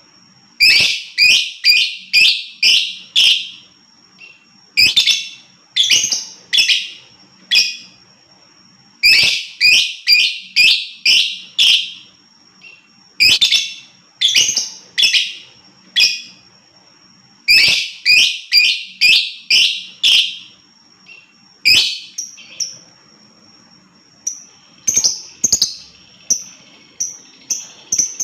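Lovebird calling in runs of sharp, shrill chirps, several a second, each run lasting one to three seconds with short pauses between. A thin, steady high tone sounds between the runs, and near the end the chirps come faster and shorter.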